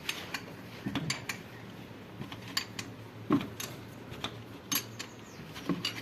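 Metal tools and parts clinking and tapping: a dozen or so short, irregular clicks, the loudest a little past the middle.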